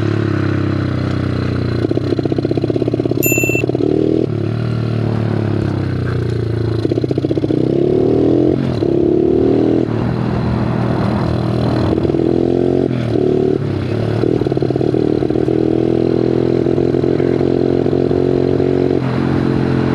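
Bigfoot 125 pit bike's single-cylinder four-stroke engine running under throttle, its pitch rising and falling again and again as it revs up and eases off.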